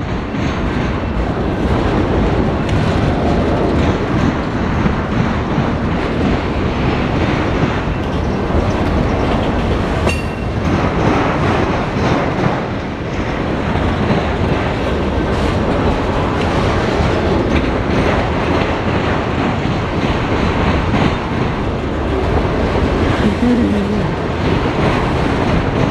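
Freight train of autorack cars rolling past at close range, wheels clattering over rail joints in a steady run of clicks and knocks.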